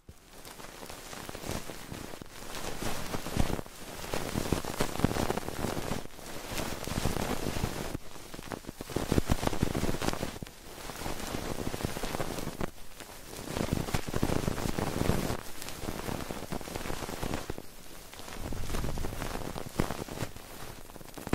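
A dense, crackling, rain-like rustle close to a binaural microphone, swelling and fading again and again.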